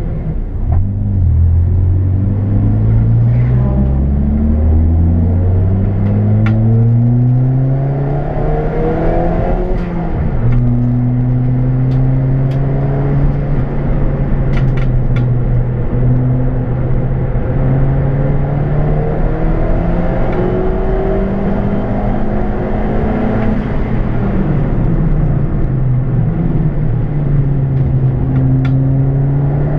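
Ford Fiesta ST's turbocharged engine accelerating hard through the gears for the first ten seconds or so, pitch climbing and dropping at each change, then running at a fairly steady pitch with small rises and dips, heard from inside the cabin of the caged track car. A few sharp clicks and knocks sound over it.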